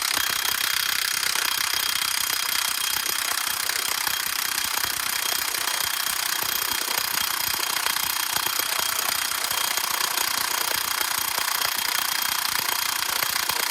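Milwaukee cordless impact wrench hammering steadily on a flywheel bolt, a continuous rapid rattle of impacts. The bolt does not break loose.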